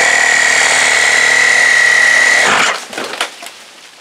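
A power tool running steadily with a high, even whine, then stopping about two and a half seconds in, followed by some rough scraping.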